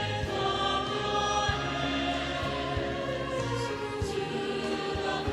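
Christian worship music: a choir and accompaniment holding long, sustained chords.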